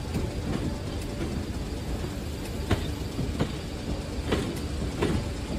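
A train rolling by, a steady low rumble with a few sharp clanks from the wheels and cars at uneven intervals.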